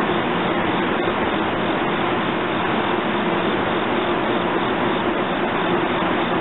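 Steady hiss with a constant low hum from a commuter train of NJ Transit Comet coaches standing still with its equipment running, with a few faint ticks.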